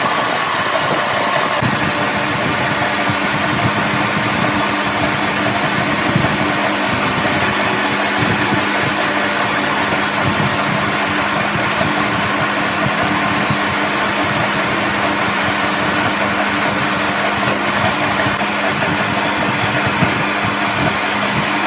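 An engine or machine running steadily: a constant drone with a low, even hum.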